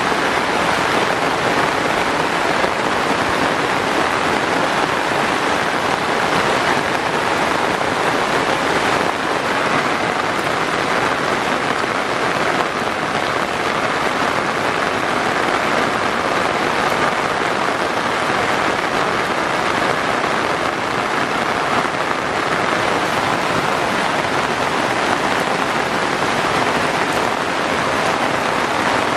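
Heavy rain falling steadily, a constant dense hiss of drops on surfaces.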